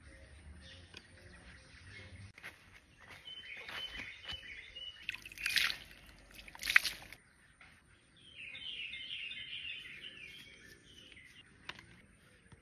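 Birds chirping in the background, with two short, sharp, louder noises in the middle.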